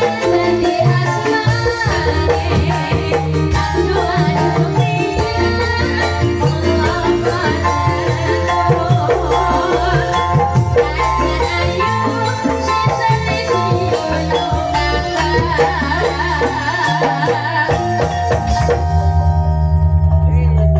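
Calung Banyumasan music: Javanese bamboo xylophones playing a continuous piece over shaker-like percussion and a steady deep bass tone.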